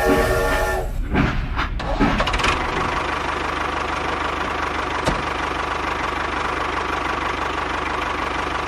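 Engine running steadily with an even, rapid pulse, after a brief pitched whine in the first second.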